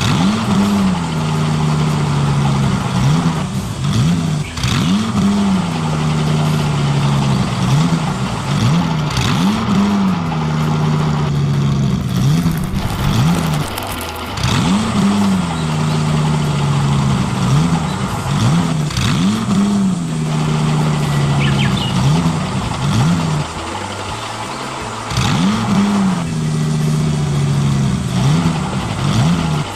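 Engine sound of a remote-control construction model, revving up and settling back again and again, about every two seconds, with a few brief drops.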